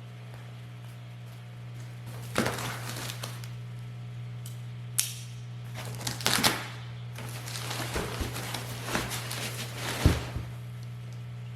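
Rustling and crinkling of packaging, with a few light knocks, in irregular bursts as an exhaust section is lifted out of its shipping box, over a steady low hum.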